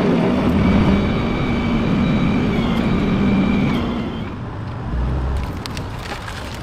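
A vehicle engine running steadily with a thin high whine over it; both drop away about four seconds in, leaving a quieter rumble.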